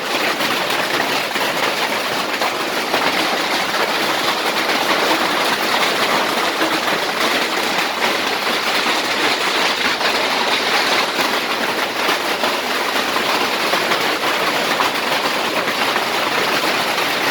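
Hailstorm at its peak: a loud, unbroken clatter of countless hailstones pelting down and striking hard surfaces, too loud to shout over.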